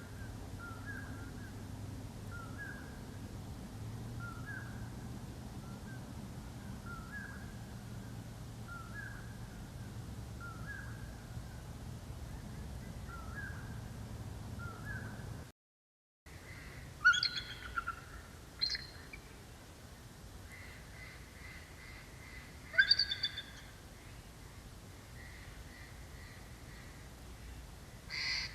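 Wild birds calling. For the first half a small bird repeats a short call about once a second over a low hum. After a brief break come a few louder calls with a crow-like ring, and between them fainter repeated chirps.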